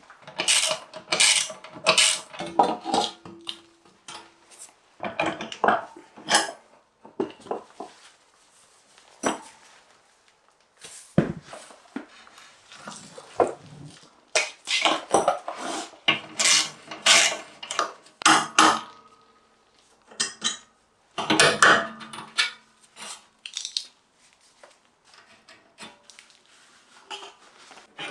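Metal parts and hand tools clinking, clattering and knocking irregularly in clusters, with short pauses between, as scooter parts are handled and worked on.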